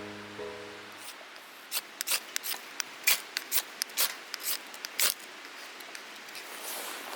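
Ukulele music fades out in the first second. Then comes an irregular run of about fifteen sharp clicks or snaps over about three seconds, which stops abruptly, leaving a faint rustling hiss.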